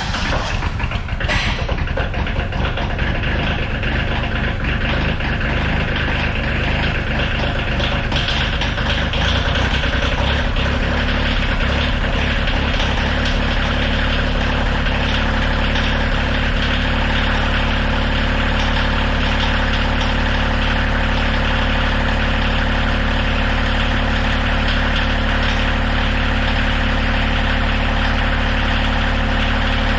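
Tractor engine running, rough and uneven at first, then settling into a steady idle about halfway through.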